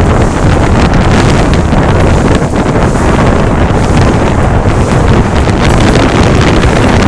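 Loud wind buffeting the microphone: a steady, gusting rumble.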